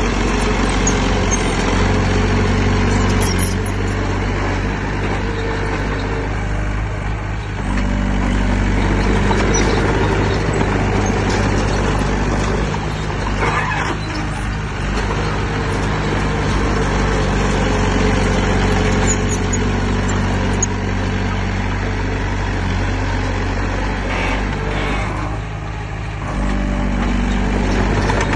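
Heavy diesel engine of earth-moving machinery running steadily under load, easing off briefly a few times and picking back up.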